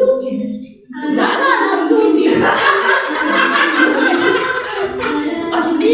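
Several people talking and laughing over music.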